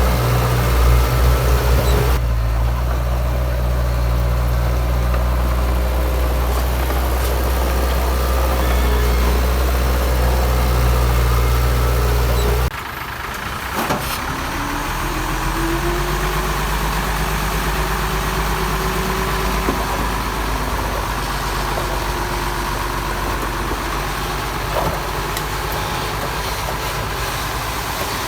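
Diesel engines of heavy earthmoving machinery running. A deep, steady engine note cuts off suddenly about halfway through, giving way to a lighter engine sound that rises in pitch a few seconds later.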